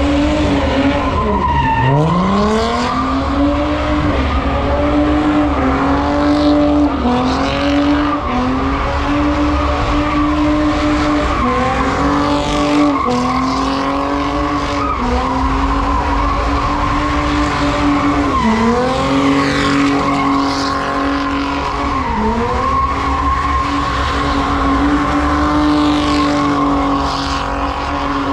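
A car's engine held at high revs, dipping briefly three times, while its tires spin and squeal: a car spinning its wheels at a street takeover.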